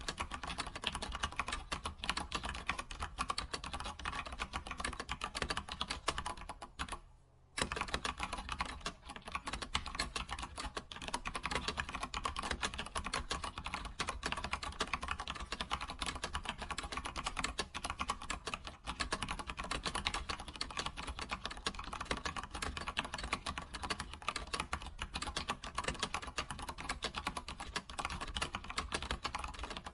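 Fast, continuous typing on a computer keyboard: a dense run of key clicks, broken by a short pause of under a second about seven seconds in.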